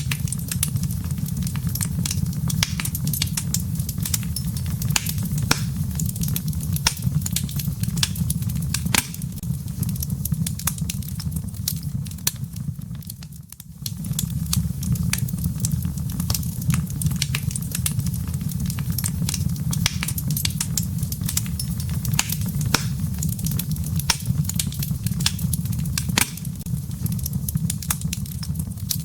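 Wood fire burning in a fireplace: steady crackling and popping of burning firewood, with many sharp snaps over a constant low rumble of the flames. The whole sound dips briefly about halfway through, then comes straight back.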